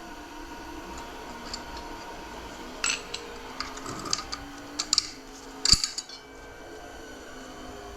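Metal parts of a 4L60 automatic transmission clinking and clattering as they are handled and set down. A handful of sharp clinks come in the second half, the loudest about six seconds in.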